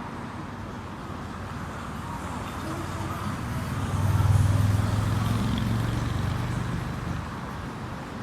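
A motor vehicle's low engine rumble swells to its loudest about four seconds in, then slowly fades, over steady outdoor background noise.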